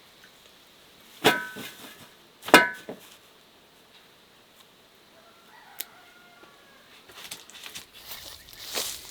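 Domestic chickens calling: two short, loud squawks a little over a second apart, then fainter clucking.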